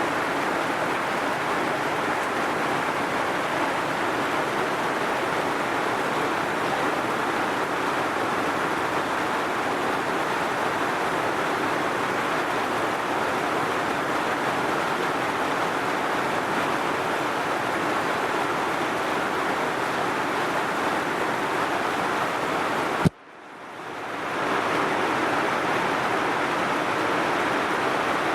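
Heavy rain falling steadily. About 23 seconds in, a sharp click, the rain cuts out, then fades back up over about a second and a half.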